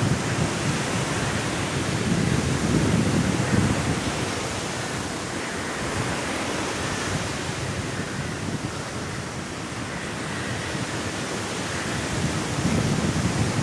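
Sea waves washing on a shore with strong wind, a steady rushing noise; the surf is loudest at the start, eases through the middle and builds again near the end.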